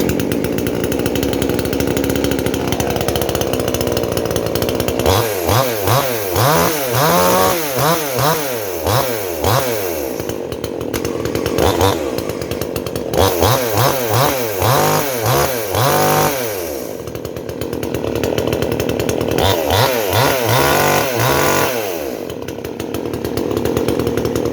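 Sumura CS6500L 54.6 cc two-stroke chainsaw running, its throttle blipped over and over in three spells, so the engine revs quickly up and down, with steadier running between.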